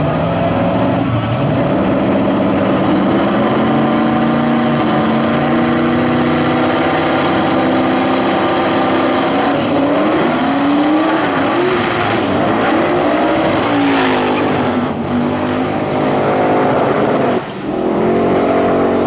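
High-powered drag-race car engine running hard at high revs. Its pitch climbs slowly, then swoops up and down several times in the middle, with a brief drop about three-quarters of the way through.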